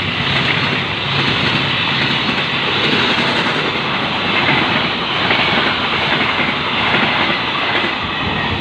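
A train passing close by, its wheels running on the rails with a steady loud rumble and some clickety-clack.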